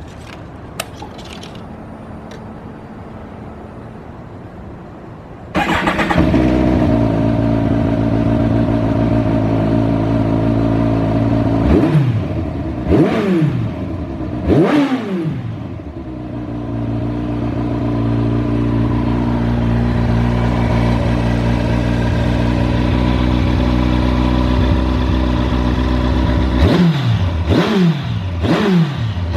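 2009 Kawasaki ZZR1400's inline-four engine through a Striker slip-on muffler, catching suddenly about five and a half seconds in after a few faint clicks, then idling steadily. Three quick throttle blips come about halfway through, and another quick run of blips near the end.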